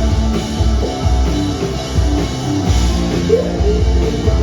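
Rock band playing an instrumental passage between vocal lines, with drum kit and electric guitars.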